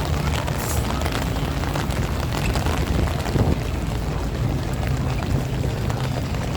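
Strong wind buffeting the microphone in a heavy, gusting low rumble, over the patter of heavy rain.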